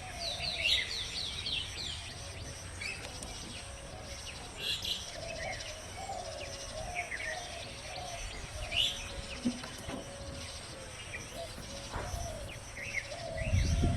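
Birds chirping: a quick run of short, falling chirps about half a second in, then scattered single chirps over a steady outdoor background. A low rumble comes near the end.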